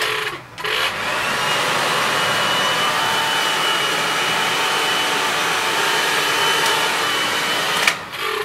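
Handheld hair dryer blowing steadily with a faint whine in its rush of air. It stops for a moment just after it starts and cuts off near the end.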